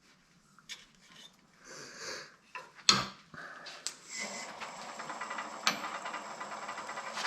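Wood lathe turning a mesquite bowl blank. A few light clicks and a sharp knock come about three seconds in. From about four seconds in the lathe runs steadily with a rapid, even pulsing.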